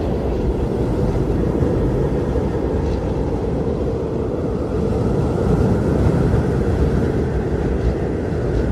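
Blizzard wind blowing hard and steadily, a deep rushing with a faint howl that swells and eases about halfway through.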